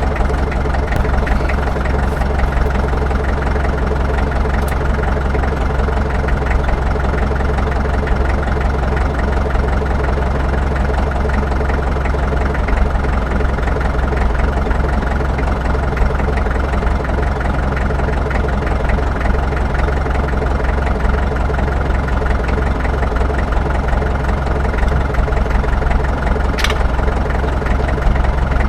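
An engine running steadily at idle, an even drone that does not change, with one brief sharp click near the end.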